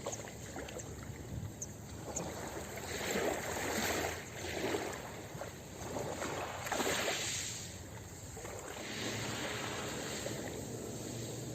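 Ocean waves washing onto a beach: two swells of surf about three seconds apart, then a steadier, quieter wash.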